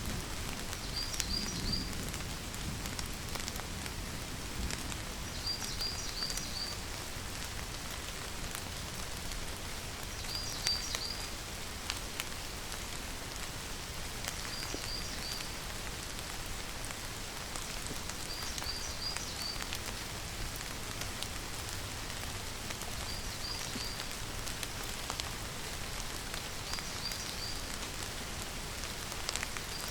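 Steady rain falling, a continuous even patter. A bird calls through it with a short burst of three or four quick high chirps, repeated about every four seconds.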